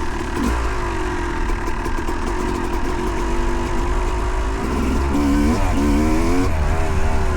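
2008 Yamaha YZ250 two-stroke dirt bike engine running while riding, with wind noise on the microphone. Its pitch wavers quickly up and down a few times about five seconds in, then settles again.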